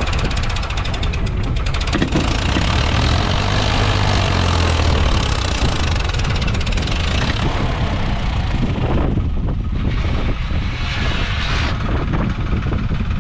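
Farmtrac 60 tractor's diesel engine running loud and steady under load while pulling a fully loaded trolley.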